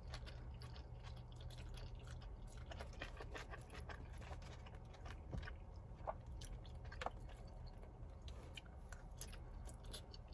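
Close mouth sounds of eating shrimp lo mein: soft chewing with small wet clicks, and noodles slurped in now and then, over a low steady hum.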